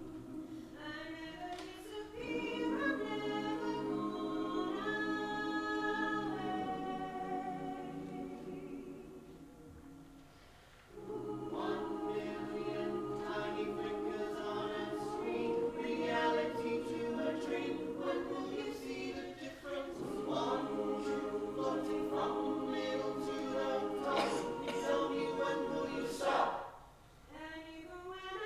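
Several voices singing a cappella in harmony, holding long chords in phrases that fade out briefly about ten seconds in and again near the end.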